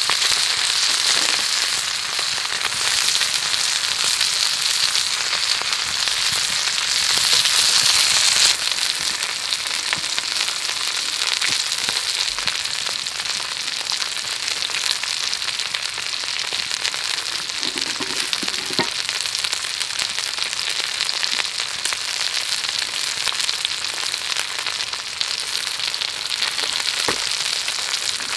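Food frying in hot oil in a pan: a steady crackling sizzle that eases slightly about eight seconds in.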